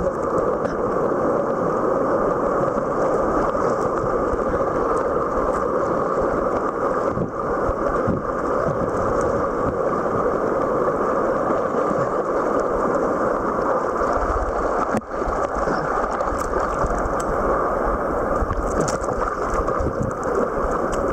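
Steady rush of white water in river rapids: an even, unbroken noise.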